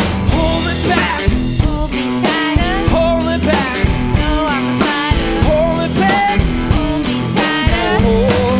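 Blues-rock music: electric guitar with bending notes over a drum kit, played by a two-piece band.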